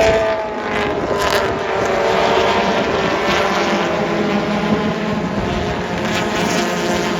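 Historic race cars' engines running at speed on the circuit, several engine notes overlapping in a steady, loud drone.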